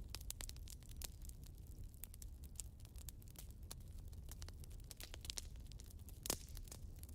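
Wood fire burning in a fireplace: steady crackling with irregular sharp pops over a low rumble, and one louder pop about six seconds in.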